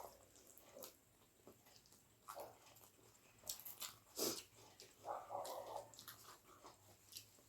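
A person chewing food with wet mouth smacks and clicks, in scattered bursts with the busiest stretch around the middle.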